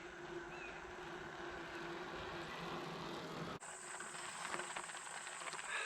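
Faint outdoor ambience with two short chirps early on. After a cut about three and a half seconds in, a steady high insect buzz sounds with light ticking.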